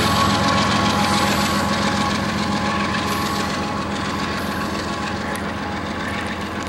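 Union Pacific freight train moving away after passing: a steady rumble of wheels on rail with a faint whine, slowly getting quieter.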